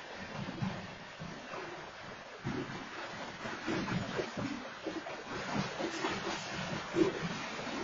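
Freight train of covered hopper cars rolling past: a steady rumble of steel wheels on the rails with irregular clanks and knocks, the sharpest about seven seconds in, heard through a home security camera's microphone.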